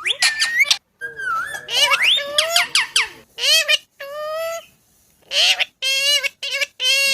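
Ringneck parrot squawking and chattering in a string of short, high calls that swoop up and down in pitch. Near the end come several quick calls on an even pitch.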